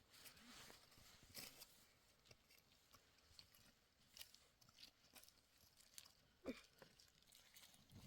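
Near silence, broken by faint, scattered clicks and rustles, one a little stronger about six and a half seconds in.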